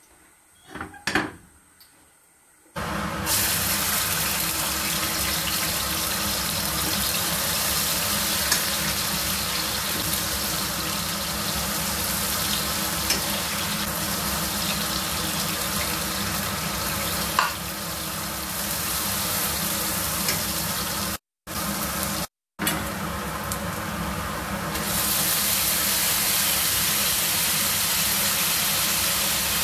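Chopped garlic, shallot, chili and ginger frying in hot oil in a wok: a steady sizzle that starts suddenly about three seconds in, with a few sharp clicks of the spatula against the pan. The sizzle cuts out twice briefly a little after two-thirds of the way through.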